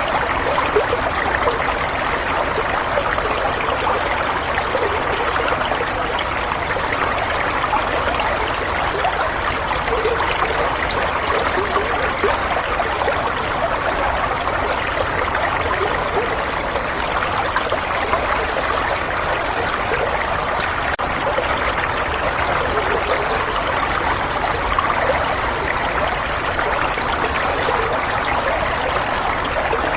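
Running water flowing steadily, an even babbling rush like a small stream.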